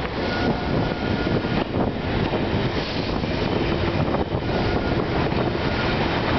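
Passenger coaches of a train passing at speed close by: a steady loud rush of wheels on rails and moving air, with a dense irregular clatter.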